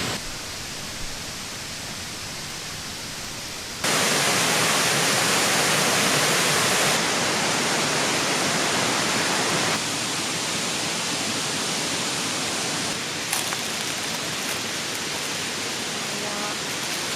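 A steady rushing noise with no distinct events, stepping abruptly louder or softer several times, as at edit cuts between shots.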